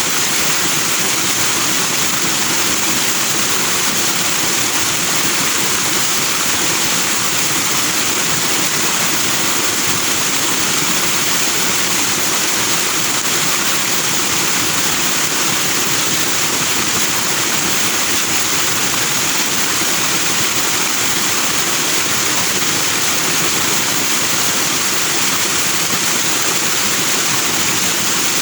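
Forest stream rushing and foaming over rocks, a steady, loud wash of water.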